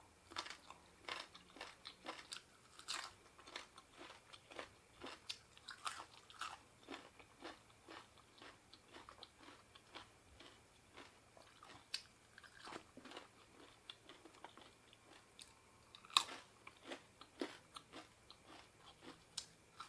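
A person chewing and crunching food close to the microphone, with irregular sharp crunches several times a second and a louder crunch about three quarters of the way through.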